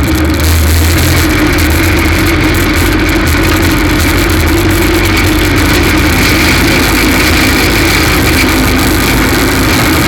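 F2 stock car engine running loud and steady, with a misfire caused by a cracked spark plug.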